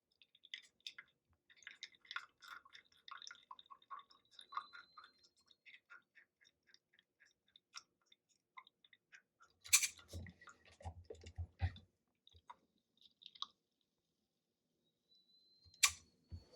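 Scattered small clicks and crunchy handling sounds, then a cluster of louder knocks and thuds about ten seconds in and one sharp knock near the end.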